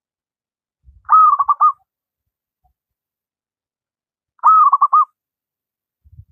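Local wild-type zebra dove (perkutut) cooing, two phrases about three seconds apart. Each phrase is a longer arching note followed by three quick clipped notes.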